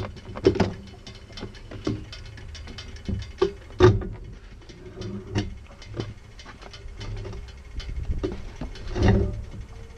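1978 Harley-Davidson Shovelhead V-twin, fitted with an S&S carburettor, idling with an uneven, lumpy beat and louder irregular thuds.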